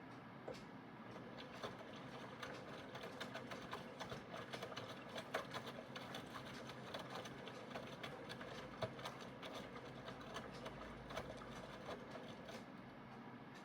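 Aidoo 1 kg mini washing machine running its wash: its direct-drive motor turns the drum with a steady low hum and a busy, irregular clicking and rattling that picks up about a second in and eases off near the end.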